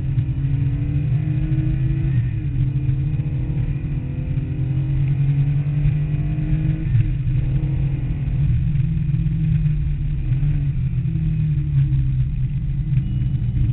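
Porsche 911's air-cooled 3.2-litre flat-six engine being driven hard on track, heard from inside the cabin. The revs climb, drop sharply about two seconds and seven seconds in, then climb again.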